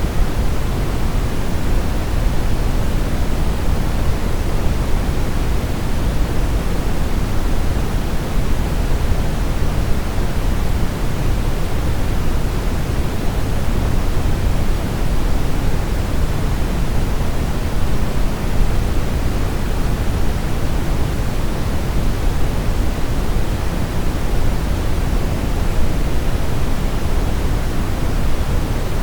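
Steady brown noise, a deep even hiss weighted toward the low end, unchanging throughout.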